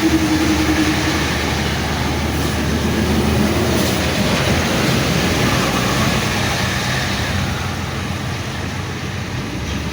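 Heavy vehicle engine running, with a steady rumble of road and tyre noise; a pitched engine note fades out about a second in.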